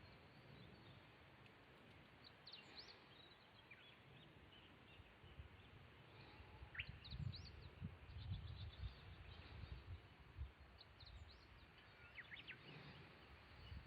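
Quiet outdoor ambience with faint bird chirps, short calls in small clusters every few seconds. Low rumbles and soft knocks come in the middle and again near the end.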